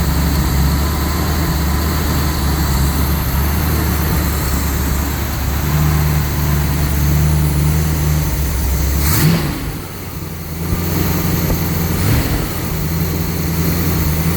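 Freshly resealed engine idling steadily on its first run, with a slight skip from old ignition parts. About nine seconds in the engine note changes sharply and the sound dips briefly before it settles back to idle.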